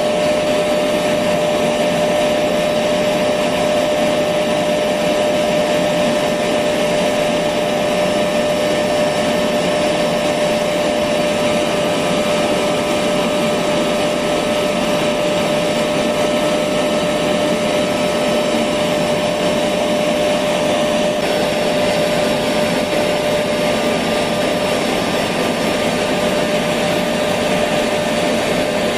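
Electric vacuum cleaner running steadily, a constant rushing whir with a steady tone in it.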